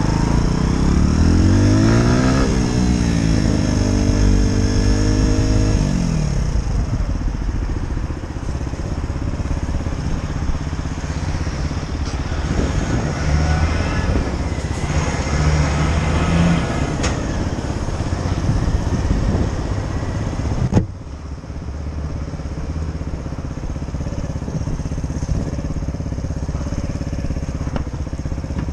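Motorcycle engine running on the road, rising and falling in pitch through the gears over the first few seconds, then holding steadier; the sound drops suddenly in level about twenty seconds in.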